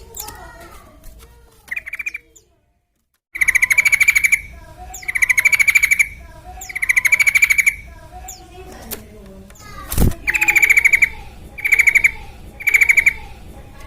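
Sooty-headed bulbul (trucukan) calling in loud bursts of rapid rattling trill, each about a second long, six in a row, with softer chirps underneath. There is a brief dropout to silence just before the bursts begin and a single sharp click about ten seconds in.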